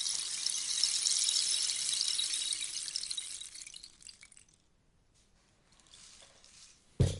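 Rainstick: its beads trickle down through the tube in a dense, rain-like patter that tapers off about four seconds in. A few stray ticks follow, then a single sharp thump near the end.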